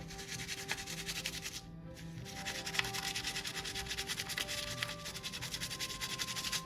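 Rapid, even rubbing strokes that pause briefly about two seconds in, over soft background music.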